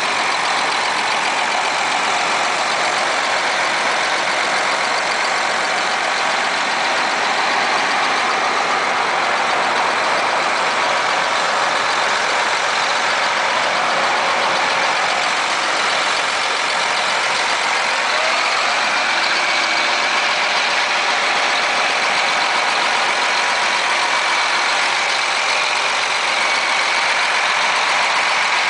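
John Deere 8235R tractor's diesel engine running steadily at idle, with a slight rise in pitch about two-thirds of the way through.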